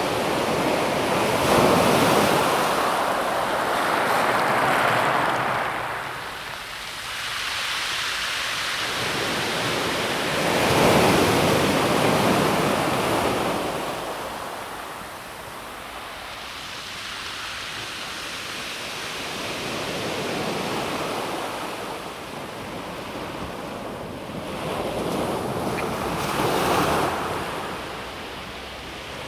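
Calm sea waves breaking and washing over a pebble beach, surging and receding every few seconds. The loudest surge comes about eleven seconds in, with a smaller one near the end.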